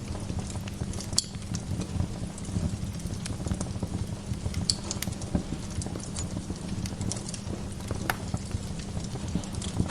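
Wood fire burning in a fireplace, crackling: irregular snaps and ticks over a steady low rumble of the flames, with a few sharper pops about a second in, near the middle and about eight seconds in.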